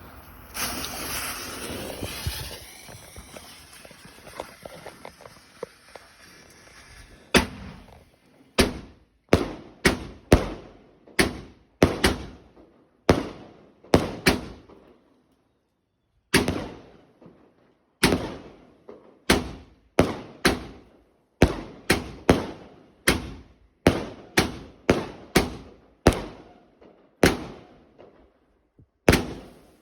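A 25-shot consumer firework cake: a loud hissing for about the first seven seconds as it lights, then sharp shots firing one after another, roughly one a second with some in quick succession. There is a brief pause about halfway through the volley.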